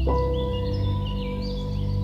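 Ambient relaxation music: sustained ringing tones over a low drone, a new pair of tones sounding right at the start, with bird chirps layered over it.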